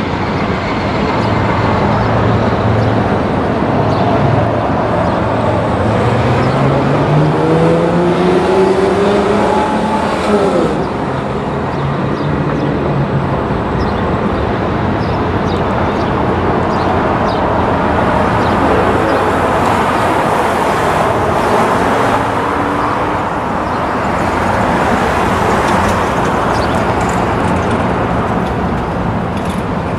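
Loud, steady rumble of heavy vehicle traffic. About seven seconds in, an engine's note rises for a few seconds and breaks off, and a second, weaker rise comes near the twenty-second mark.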